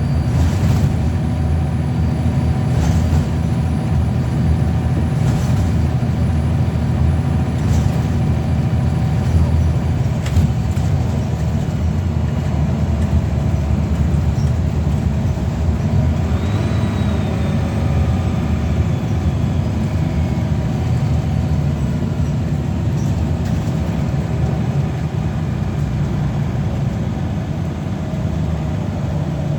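Scania L94UB bus engine, a 9-litre five-cylinder diesel, running steadily under way, with a few sharp knocks or rattles in the first third. About halfway through, a faint whine falls slowly in pitch for several seconds.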